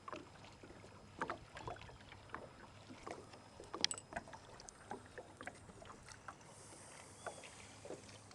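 Kayak paddling on calm water: small irregular splashes and drips from the paddle blades, with a short hiss of water a little over three-quarters of the way in.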